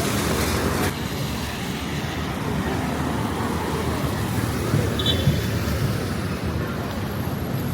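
City street traffic: vehicles passing with a steady low rumble and tyre hiss, the hiss loudest in the first second. A brief high chirp about five seconds in.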